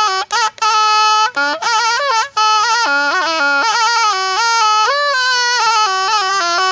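Thai pi, a quadruple-reed oboe, playing a solo melody: short detached notes for the first two seconds or so, then one unbroken line with pitch bends and quick ornaments.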